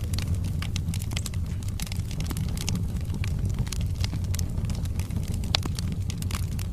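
Wood fire burning in a fireplace: a steady low rumble of flames with frequent crackles and pops from the burning logs, one pop louder than the rest about five and a half seconds in.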